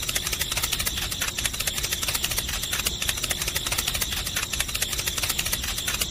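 Small electric motor running steadily with a high whine and a rapid, even clicking rattle.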